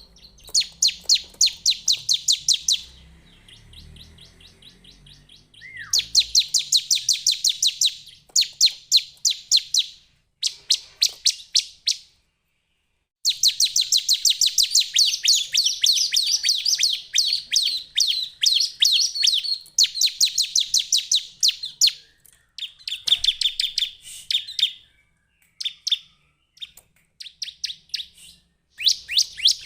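Bar-winged prinia (ciblek) singing: loud phrases of rapid, sharp chirping notes, about ten a second, each phrase lasting a few seconds with short pauses between.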